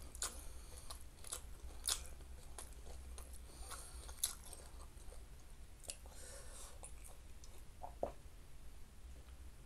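Close-up mouth sounds of a person chewing salted peda fish and rice: soft wet chewing with scattered sharp clicks and smacks. About 8 seconds in, a swallow as water is drunk from a glass.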